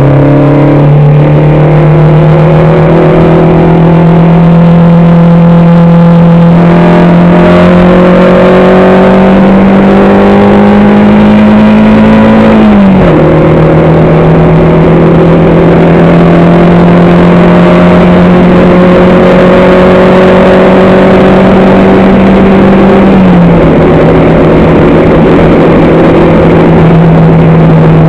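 Racing car engine heard on board, very loud and under load, its pitch climbing slowly through long pulls in gear. The pitch drops sharply at upshifts about 13 and 23 seconds in, and falls again right at the end as the engine comes off the throttle.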